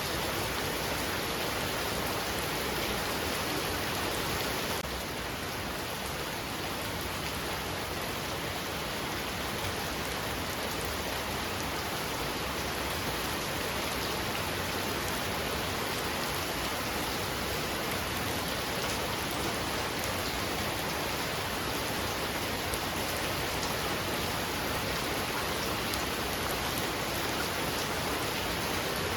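Heavy rain falling steadily, an even hiss of many drops striking surfaces; it eases a little about five seconds in and then holds steady.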